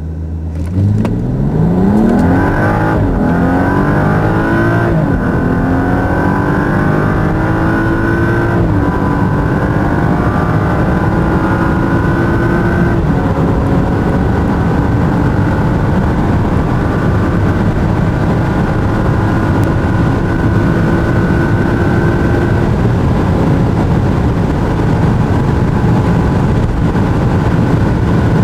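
BMW 335i F30's turbocharged 3.0-litre inline-six accelerating at full throttle from a standstill, the revs climbing and falling back at each upshift. The shifts come about three and five seconds in, then after longer and longer pulls near nine, thirteen and twenty-three seconds. Wind and tyre noise build steadily as the speed rises toward 250 km/h.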